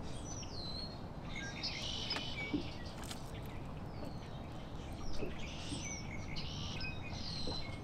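Wild birds chirping and calling several times, some calls with quick sliding notes, over steady low outdoor background noise.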